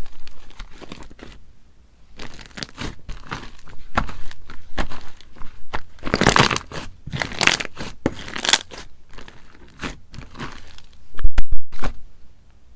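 Slime being squeezed and pressed by hand, making crunchy, crackling squishes in irregular bursts, with a loud thump near the end.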